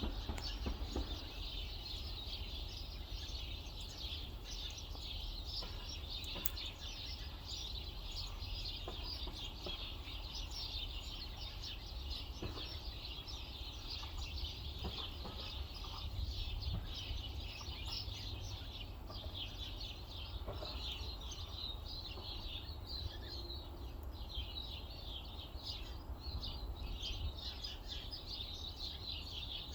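A chorus of many small birds chirping continuously, with wind rumbling on the microphone underneath.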